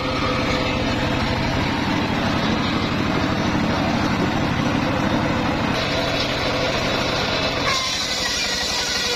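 Engine-driven homemade circular sawmill running steadily, with a pulsing engine note; about eight seconds in the sound changes, the low end dropping and a higher whine coming up.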